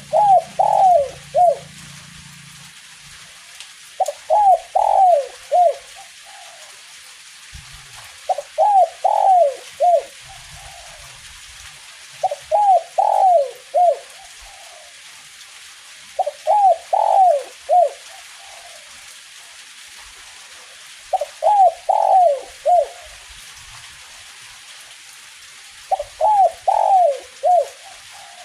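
Spotted dove singing its cooing song, the 'kuk 1' type, in repeated phrases of four or five coos about every four to five seconds. A faint steady hiss of light drizzle lies underneath.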